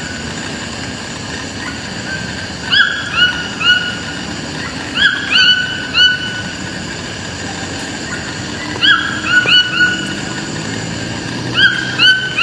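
Toucan calling: four bursts of three or four short yelping calls, each call sweeping quickly upward at its start, over a steady background hiss.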